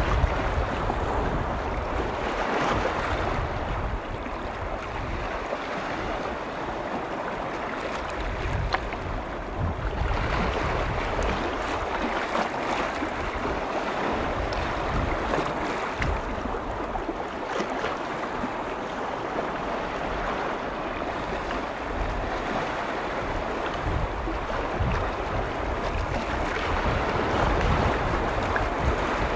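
Lake waves washing in, a continuous noisy wash that swells and eases every several seconds, with wind rumbling on the microphone.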